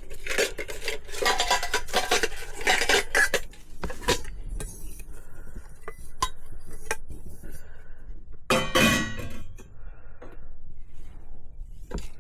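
Camping mess-kit pots, pans and utensils clattering and clinking as they are unpacked and handled, with scattered knocks and one louder burst of clatter about three-quarters of the way through.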